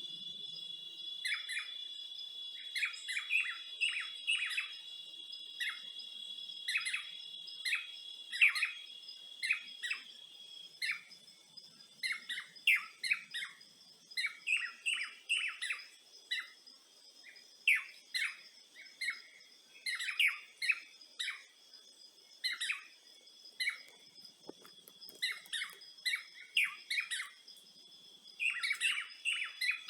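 Birds chirping in quick, repeated short calls, with a steady high-pitched tone that fades about ten seconds in.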